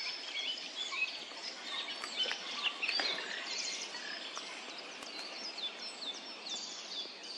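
Spring chorus of many songbirds singing at once, a dense mix of overlapping chirps and whistled phrases, easing gradually quieter toward the end.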